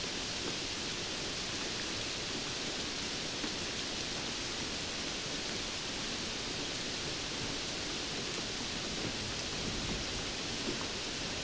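Steady rain falling, an even hiss with a few faint drops ticking through it.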